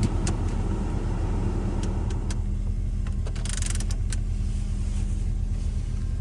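Vehicle engine idling steadily after a cold start, with a few sharp clicks. About two seconds in the higher running noise drops away, and a brief hiss follows a second later.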